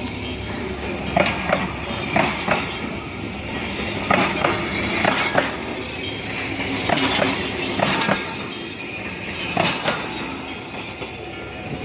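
A train passing slowly, its wheels clacking over the rail joints in pairs about every second.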